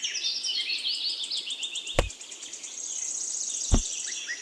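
Several small birds chirping and trilling together, with a fast high trill near the end. Two sharp knocks cut through, about two seconds in and again near the end.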